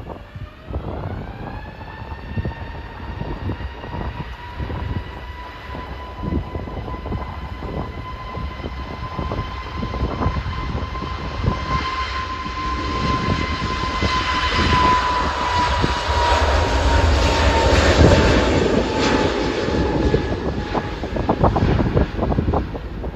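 Airbus A320neo's CFM LEAP-1A turbofan engines spooling up to takeoff power with a rising whine, then a steady high whine over a building roar as the jet rolls and climbs past. The roar peaks in the second half while the whine slides down in pitch. Wind buffets the microphone throughout.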